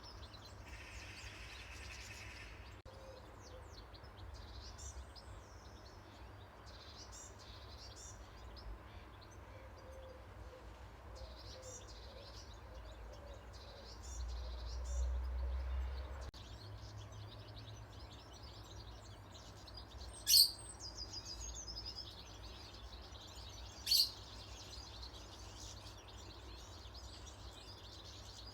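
Several small wild birds chirping and calling over a steady low rumble. Two sharp, loud calls stand out about two-thirds of the way through, and the rumble swells for a couple of seconds midway.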